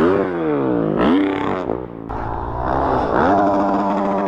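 Dirt bike engine revving hard with the throttle, its pitch climbing, dropping back and climbing again several times as the rider accelerates.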